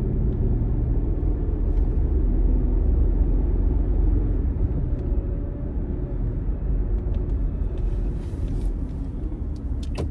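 Car driving, heard from inside the cabin: a steady low rumble of engine and road noise that gets a little quieter near the end.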